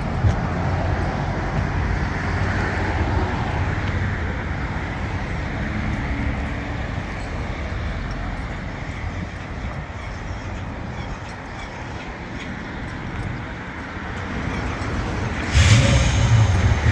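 Car engine running steadily with road noise, then suddenly louder about fifteen seconds in.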